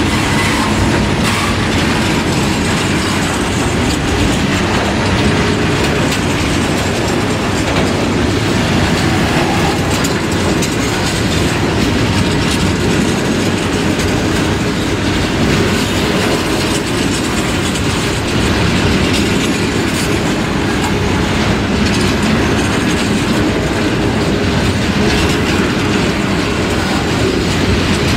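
Empty grain hopper wagons of a freight train rolling steadily past: a continuous rumble of steel wheels on rail with repeated clicking over the rail joints.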